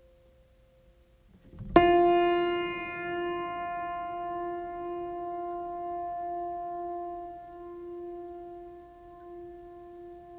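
A single keyboard note, piano-like, struck about two seconds in and left ringing, fading slowly with a slight waver in its lowest tone.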